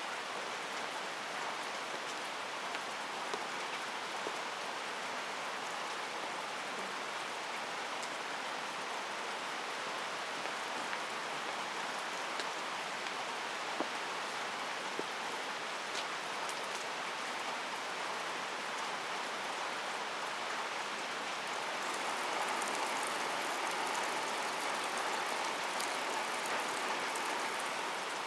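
Steady rain falling, with scattered single drops ticking through it; it grows a little heavier about three-quarters of the way through.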